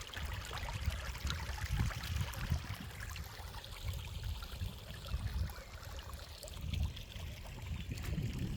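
Small stream running over rocks, a steady trickling and splashing with many little droplet clicks. Irregular low rumbles sit under it and grow stronger near the end.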